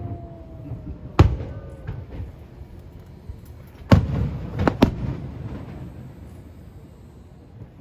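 Aerial fireworks shells bursting overhead. There is a loud bang about a second in, another near four seconds, and two more close together under a second later, each trailing off in a low rumble.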